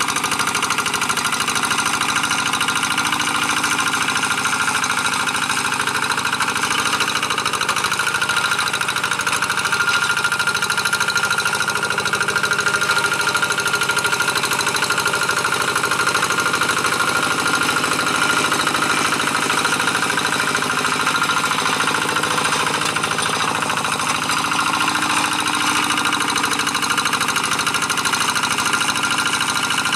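The single-cylinder diesel engine of a G1000 two-wheel hand tractor, running steadily under load as it pulls a moldboard plough through dry paddy soil, with a fast, even knock.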